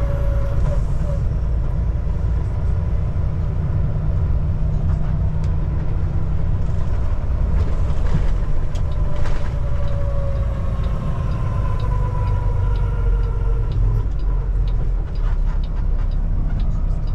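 Semi truck's diesel engine running at low speed as heard from the cab, a steady low rumble with a faint whine that slides down in pitch. A rapid ticking comes in near the end.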